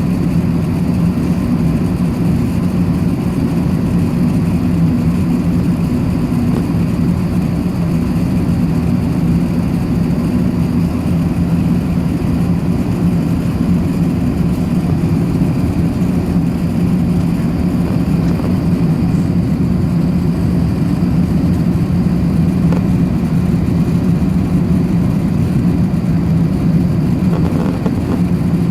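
Steady low drone of an Airbus A380-861 in flight, heard inside the passenger cabin: the noise of its four Engine Alliance GP7200 turbofans and the air rushing past the fuselage, even and unchanging.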